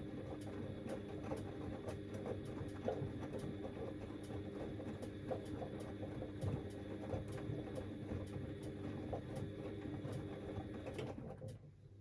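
Washing machine's drum turning during the wash, its motor humming steadily with a light regular ticking about twice a second. The motor stops abruptly near the end, the pause in the wash rhythm before the drum reverses.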